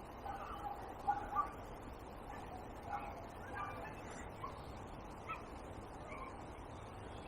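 Faint birds calling in short, scattered calls, mostly in the first half, over a steady faint hiss.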